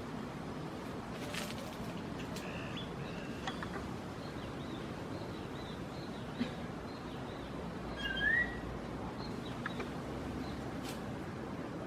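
Birds singing: scattered short high chirps and whistles over steady background noise, with one louder rising whistle about eight seconds in.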